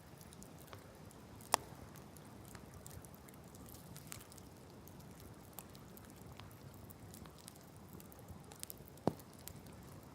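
Wood campfire crackling, with scattered small snaps and two sharper pops, one about a second and a half in and one near the end.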